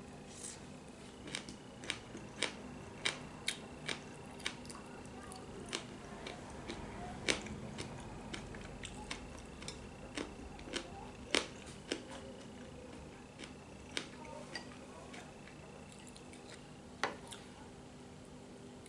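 Close-up eating sounds: irregular sharp clicks and smacks, a few a second at times, from a person eating noodle stew, over a faint steady hum.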